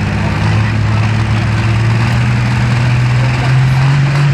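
Modified pulling tractor's engine running hard under load as it pulls the sled, a loud, deep, steady note whose pitch climbs slowly.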